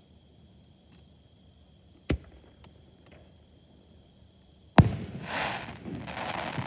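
Fireworks at a display: a sharp boom about two seconds in, then a louder boom near five seconds followed by a couple of seconds of crackling. Crickets chirp steadily underneath.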